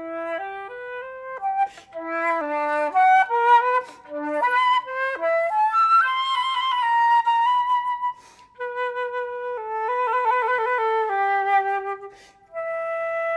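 Unaccompanied solo flute playing a quick stepwise melodic passage, then a long held note with vibrato and a quick trill about ten seconds in, with two short pauses between phrases.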